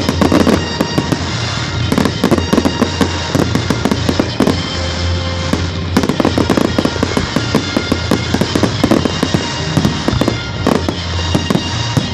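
A fireworks display: a dense run of sharp firework bangs and crackles, several a second throughout, over background music.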